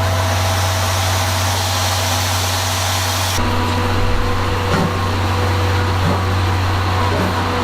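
Railway locomotive running steadily while standing, a constant low hum under a noisy hiss; the high hiss drops away abruptly about three and a half seconds in.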